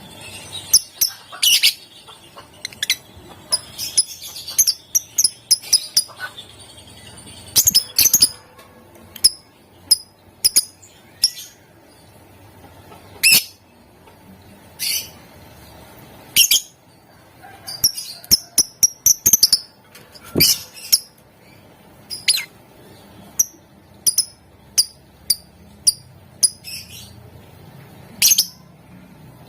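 Lovebirds chirping: short, sharp, high-pitched calls at irregular intervals, some coming in quick clusters.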